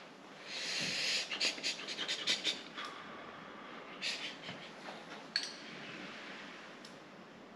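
A person tasting turkey neck soup: a drawn-in slurp about half a second in, then a run of quick small clicks and mouth smacks, and another short slurp around four seconds in.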